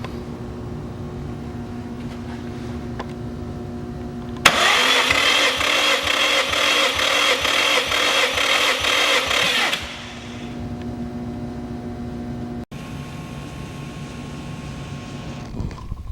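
Subaru EJ207 flat-four being turned over on its starter for a compression test: a loud, evenly pulsing cranking that starts about four and a half seconds in, runs for about five seconds and stops abruptly. A steady hum runs before and after it.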